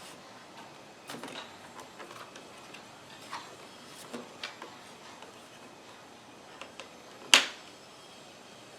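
Light clicks and taps of plastic parts of a bagless upright vacuum being handled, with one sharp, loud click about seven seconds in.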